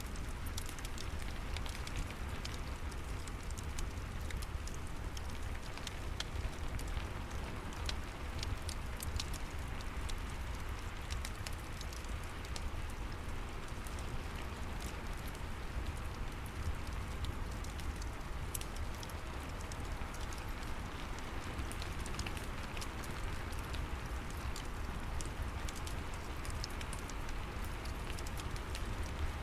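Steady rain mixed with a crackling wood fire: scattered sharp pops and crackles over a constant wash of rain, with a steady low rumble underneath.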